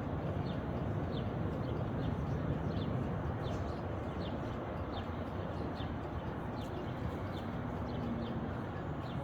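A small bird chirping repeatedly in short high notes, about twice a second, over a steady low rumble of outdoor background noise.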